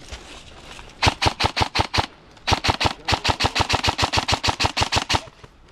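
Airsoft replica firing rapid strings of shots, about eight a second: a run of about a second, a brief pause, then a longer run of nearly three seconds.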